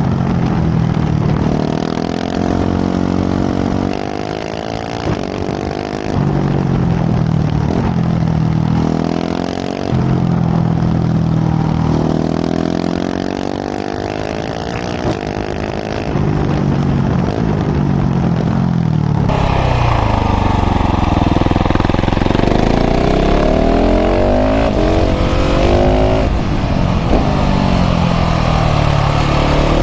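KTM 690 SMC R's single-cylinder LC4 engine through a full LeoVince exhaust, repeatedly accelerating and backing off. Its pitch climbs and falls, broken by short dips at the gear changes. About 19 seconds in, the sound turns fuller and deeper.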